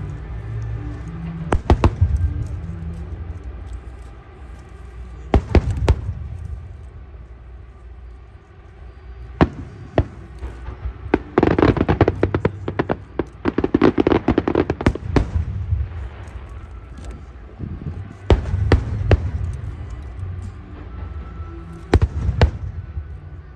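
Aerial fireworks display: sharp bangs of shells bursting, some single and some in quick clusters. There is a dense run of bursts and crackling about twelve to fifteen seconds in, over a continuous low rumble.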